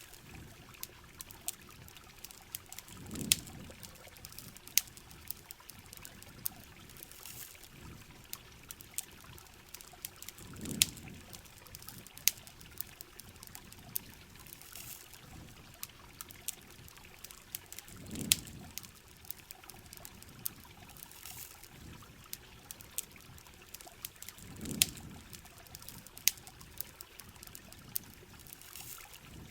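Steady heavy rain with the frequent sharp pops and crackles of a campfire. A soft low swell recurs about every seven seconds.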